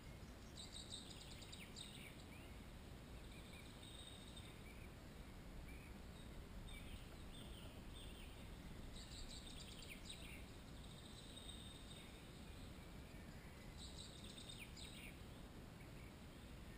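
Faint songbird calls: several short bursts of rapid, high chirps with thin high notes between them.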